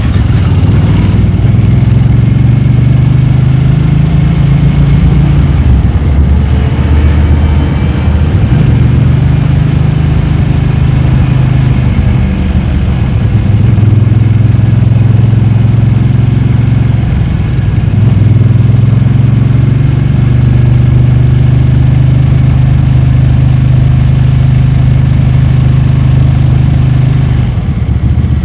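Motorcycle engine running steadily, its low hum holding one pitch for several seconds at a time and shifting several times.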